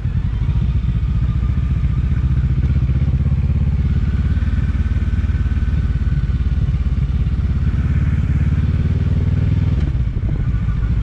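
Motorcycle engine running at low, steady revs as the bike rolls along slowly, its low exhaust beat the loudest sound; the note eases briefly about ten seconds in.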